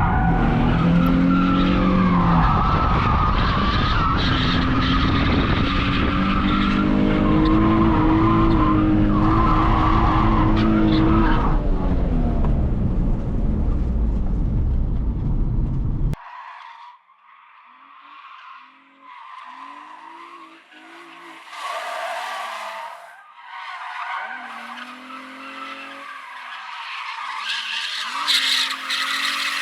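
Nissan 350Z's VQ35 V6 revving up and down with tyre squeal while drifting. About 16 seconds in there is an abrupt cut to a quieter, thinner-sounding stretch of engine revs and bursts of tyre noise.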